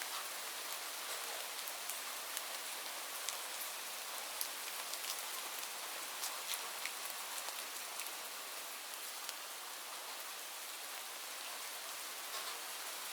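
Steady hiss of rain with scattered sharp crackles and pops from a wood fire.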